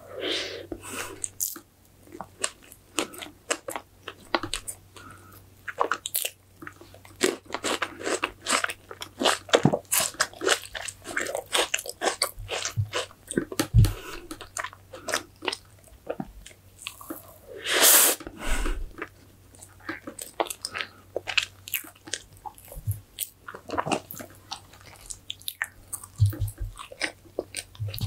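Close-miked chewing and biting of strawberry fresh cream cake: a steady run of soft, wet mouth clicks and smacks, with one louder, longer mouthful about two-thirds of the way through.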